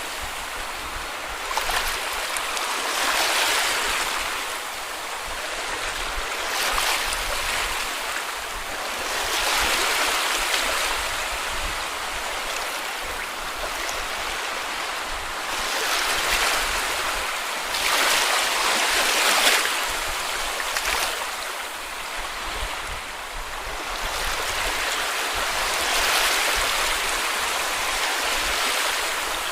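Sea waves breaking and washing up on a beach: a steady wash of water noise that swells with each wave every several seconds and then fades back.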